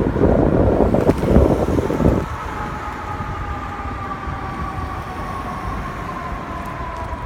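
A loud rumble from a passing train cuts off about two seconds in, leaving quieter street noise. Over it all, a siren holds a steady high tone that slowly sinks in pitch.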